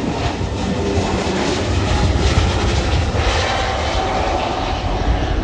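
Airliner engines running loud and steady, a dense rumble with a faint whine that rises slightly about three and a half seconds in.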